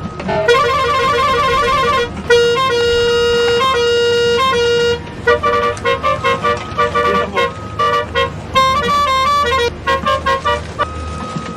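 A simple tune of bright, beeping electronic tones that step between a few notes in a repeating pattern, over a steady low hum.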